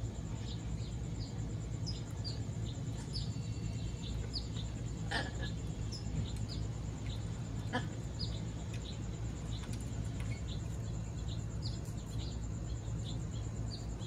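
Birds chirping: a scattering of short, high chirps, with a couple of louder calls about five and eight seconds in, over a steady low hum.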